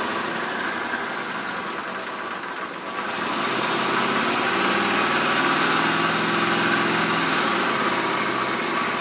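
1981 Honda Silverwing GL500's V-twin engine idling steadily, warmed up with the choke off; it grows a little louder about three seconds in.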